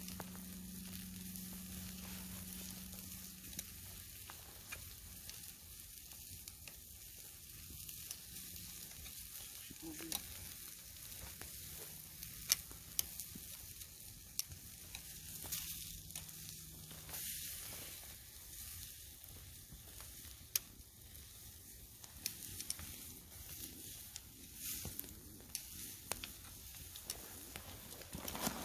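Marinated pork chops sizzling on a grill over a campfire: a steady hiss with scattered pops and crackles.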